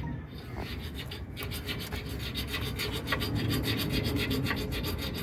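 Hacksaw cutting through a metal bolt by hand: rapid rasping strokes of the blade, growing stronger about a second and a half in.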